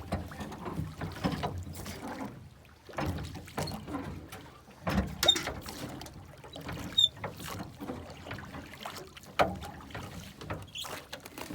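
Irregular water splashes with knocks and clatter from a small boat.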